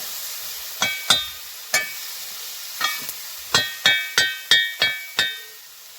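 A metal cooking utensil strikes a metal pan about ten times, each strike ringing briefly. The strikes come faster in the second half. Frying food hisses steadily beneath.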